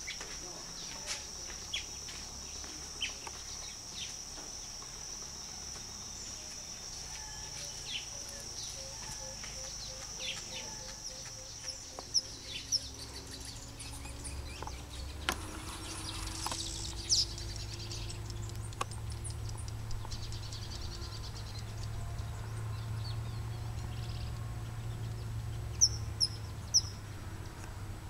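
Short, scattered bird chirps over a steady high insect buzz that fades out about halfway through. A low rumble comes in during the second half.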